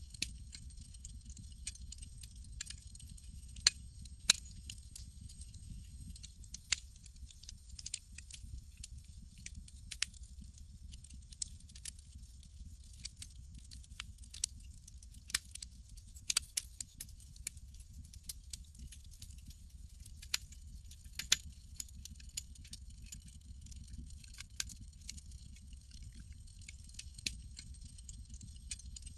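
Campfire crackling: irregular sharp pops and snaps, a few of them much louder, over a low steady rumble and a faint high hiss.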